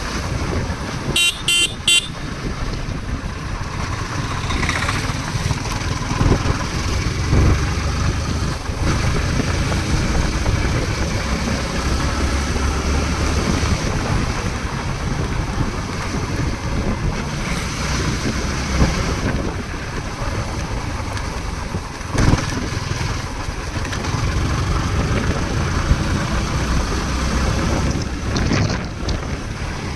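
Steady rumble of a motor vehicle on the move, with a few quick horn beeps about a second in.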